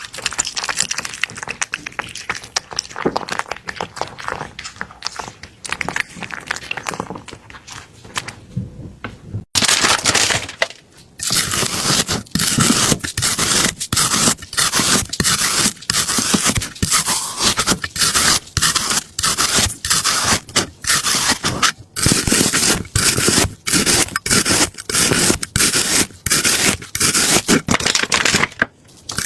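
Quiet crackling, then, about ten seconds in, loud scraping strokes repeating steadily at roughly two a second.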